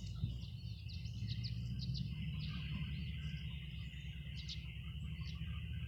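Tree swallows calling: a scatter of short, high chirps, over a steady high-pitched drone and a low rumble.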